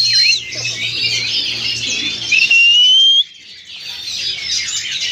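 Several oriental magpie-robins (kacer) singing at once, a dense chorus of clear whistles and fast chattering phrases. The whole chorus drops suddenly a little past three seconds in and picks up again about a second later.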